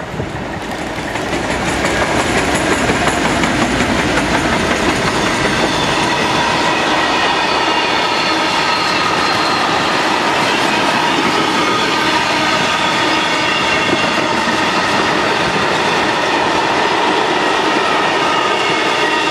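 Two Class 56 diesel locomotives passing at the head of a freight train, growing louder over the first couple of seconds. They are followed by a long rake of covered wagons rolling by: a steady wheel-on-rail rumble with clickety-clack and several steady high ringing tones from the wheels.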